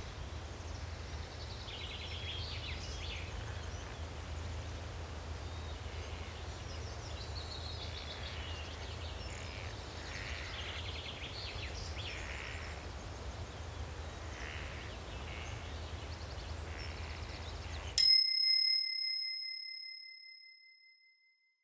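Forest ambience of birds chirping and calling over a low steady hum. About 18 seconds in, the ambience cuts off and a single timer bell ding rings out and fades away over about three seconds, marking the end of an interval.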